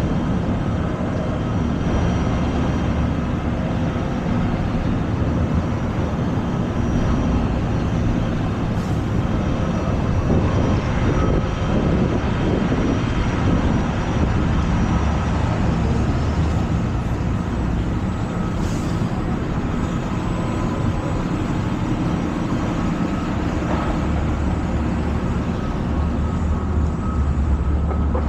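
Busy city street traffic: a steady din of vehicle engines with a low rumble.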